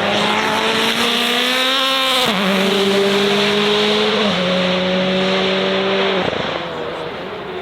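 A performance car's engine running hard. Its note climbs for about two seconds, then drops sharply twice, at about 2 s and 4 s in, as it shifts up. It holds steady, then fades away near the end.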